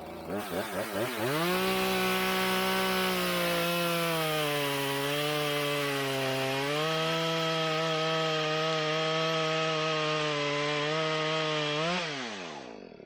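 Gas chainsaw revved up in a few quick throttle blips, then held at high speed as it cuts through wood, its pitch sagging for a few seconds under load before rising again. Near the end the throttle is released and the engine winds down.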